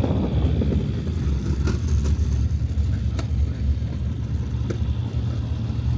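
Car engine running with a steady low rumble, with a few faint clicks.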